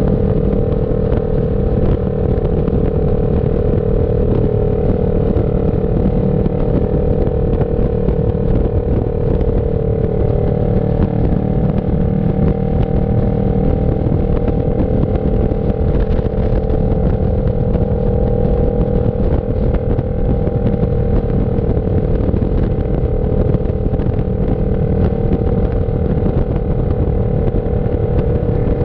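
CF Moto NK400 parallel-twin engine running under way at a nearly constant engine speed, its pitch holding steady.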